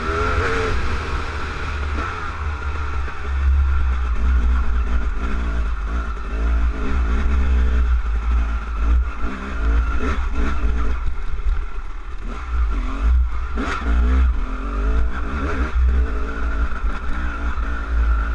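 Trail motorbike engine running hard up a wet, rocky lane, its revs rising and falling again and again as the throttle is worked over the rocks, over a heavy low rumble.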